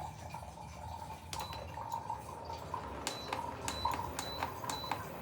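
Buttons pressed one after another on a small electronic device, each press a sharp click with a short beep, about ten presses coming irregularly from a second or so in.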